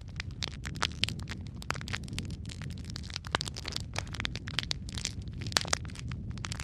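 Fireplace fire crackling, with many sharp irregular pops and snaps, several a second, over a steady low rumble of the flames.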